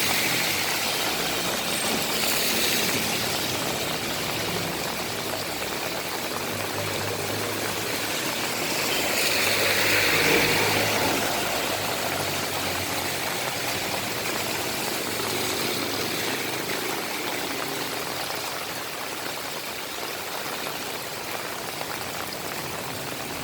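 Steady rain falling, an even hiss that swells louder about ten seconds in.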